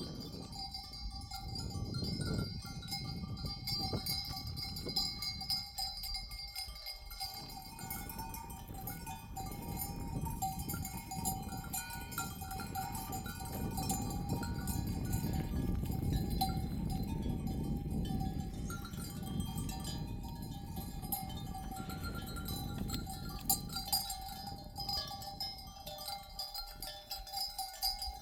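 Many small bells worn by a herd of sheep and goats ringing and clinking together without a break as the animals move, over a low rustling from the herd.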